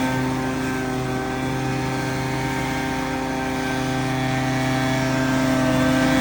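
Engine running steadily at a constant speed, a steady-pitched drone that eases slightly in loudness and then builds again near the end.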